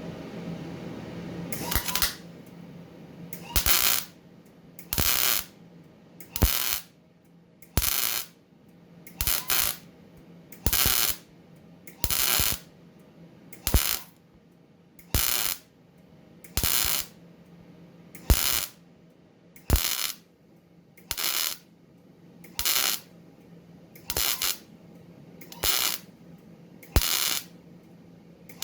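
Sherman 200M MIG welder laying short stitch welds on thin metal: brief bursts of crackling arc, each about half a second long, about one every second and a half. A low steady hum runs underneath.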